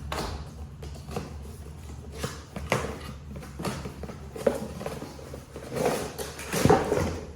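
Cardboard tool box and packaging being opened and handled: irregular rustling, scrapes and light knocks, the loudest near the end as the impact driver is lifted out.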